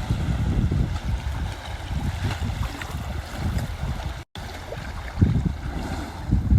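Wind buffeting the microphone outdoors, an irregular gusty low rumble, with the sound cutting out briefly about four seconds in.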